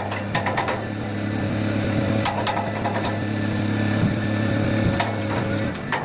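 A motor running with a steady low hum, with a quick run of sharp clicks at the start and a few single metallic knocks later on.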